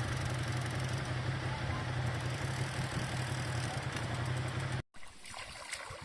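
A steady motor hum, like a vehicle engine running, that cuts off abruptly near the end, followed by quieter, uneven sound.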